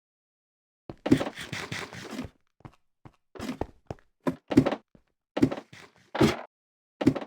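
A run of irregular thuds and knocks with handling noise between them, starting about a second in after a short silence.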